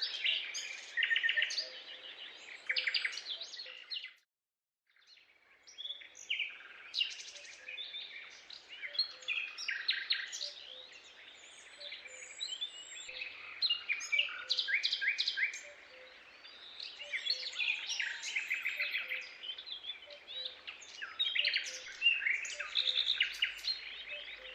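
Many birds chirping and trilling at once in a dense chorus of quick, high calls. The sound cuts out completely for about a second around four seconds in, then resumes.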